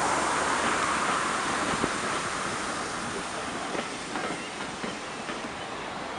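Passenger coaches of a train rolling away along the track, their wheels clicking on the rails over a steady rumble that gradually fades as the train recedes.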